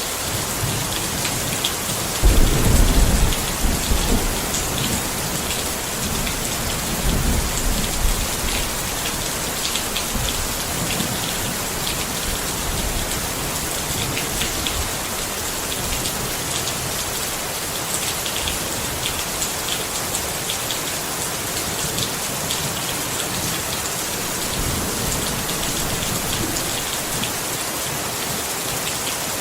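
Steady rain pattering on a tent, with a low rumble of thunder a couple of seconds in, another around seven seconds, and a fainter one near the end.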